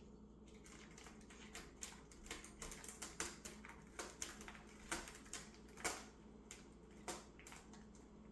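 Cat clawing a scratching tower: a run of quick, irregular scratching strokes that starts about half a second in and stops near the end.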